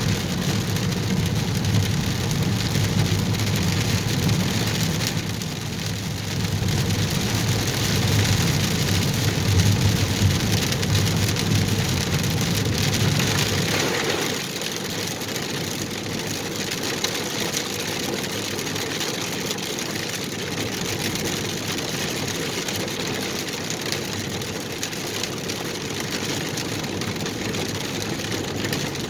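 Steady rain heard from inside a car, with the low rumble of tyres and engine on the wet road under it. The rumble drops away abruptly about halfway through, leaving the rain hiss.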